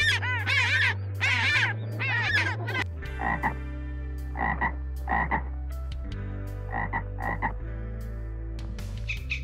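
African penguin braying in loud, repeated arching calls for the first three seconds. Then a green tree frog calls with short croaks, several of them coming in pairs.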